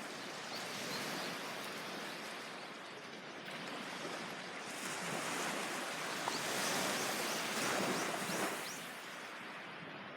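Sea waves washing onto a beach. The surf swells and grows louder about halfway through, then eases off near the end.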